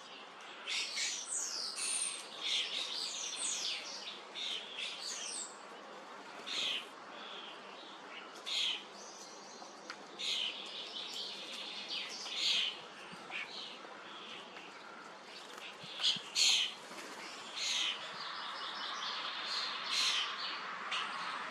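Common starlings calling: a busy run of whistles and chatter over the first few seconds, then scattered sharp calls, the loudest a pair about two thirds of the way through.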